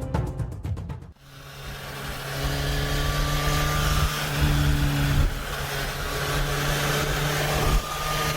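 Motorcycle engine running at a steady pitch while riding, with wind rushing over the microphone and a brief dip in level near the end. The intro music fades out in the first second.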